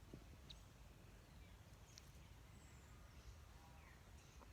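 Near silence: a few faint, short bird chirps, scattered and irregular, over a low steady background rumble.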